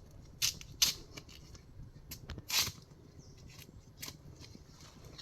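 Irregular sharp crackles and snaps of dry leaves and twigs being disturbed, with a longer rustle about two and a half seconds in.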